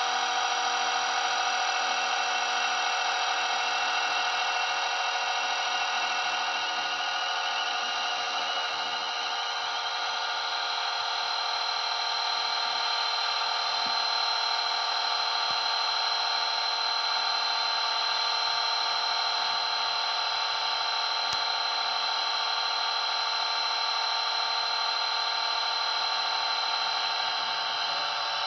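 Blade 230S V2 electric RC helicopter in flight: a steady high whine from its motors and spinning rotors with many tones at once, one of them shifting in pitch about nine seconds in.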